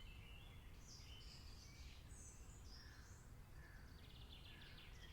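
Faint rainforest ambience: scattered short bird chirps and calls over a steady low rumble, with a rapid ticking trill about four seconds in.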